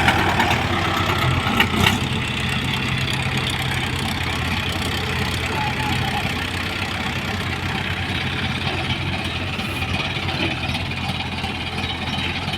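Diesel engine running steadily, with a couple of short knocks about two seconds in.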